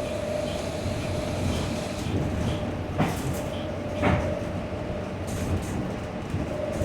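Electric traction drive of a 2018 New Flyer Xcelsior XT40 trolleybus with Vossloh Kiepe motors, heard from inside the bus. It gives a steady mid-pitched whine over a low rumble; this is the odd sound this particular bus is known for. The whine fades out around the middle and comes back near the end, and two sharp clacks sound about a second apart partway through.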